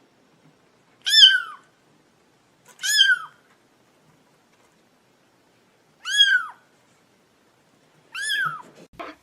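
A cat meowing four times, each meow short and falling in pitch at the end, with a few seconds' pause between them.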